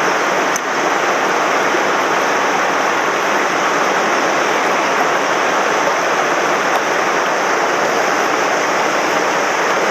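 Swollen mountain stream in flood, its fast water rushing in a loud, steady noise.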